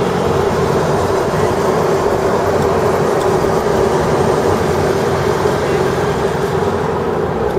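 Wind and road noise in the open bed of a moving pickup truck: a steady loud rush with a low rumble of the truck underneath.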